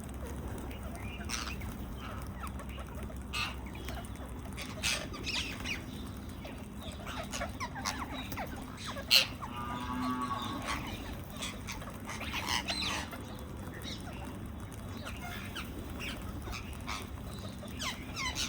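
Indian ringneck parakeets giving short, sharp squawks and chirps on and off, with a longer, lower call about ten seconds in. A sharp click just after nine seconds is the loudest sound.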